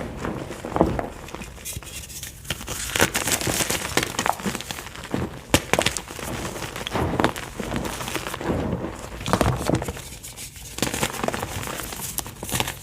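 White gym chalk being crushed and crumbled, with soft irregular crunching and crackling and many small sharp crackles, pausing briefly twice.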